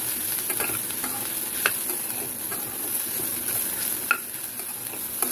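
Sliced mushrooms and onions sizzling as they fry in oil in a metal pan, with a slotted spoon stirring and scraping through them. Two sharper clicks of the spoon on the pan come a little under two seconds in and about four seconds in.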